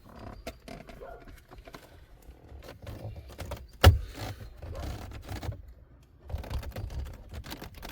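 Plastic pry tool working under the Dodge Charger's dash trim panel around the radio, with small clicks and scrapes and one sharp snap about four seconds in as a retaining clip pops loose.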